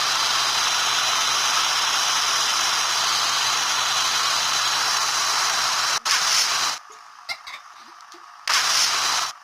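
A loud, steady airy rushing noise with a low motor hum under it, like a small electric appliance running. It cuts off abruptly about six seconds in, then is switched on again briefly twice.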